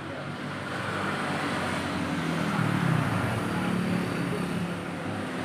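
Small motorcycle engine running steadily, briefly rising in speed about halfway through.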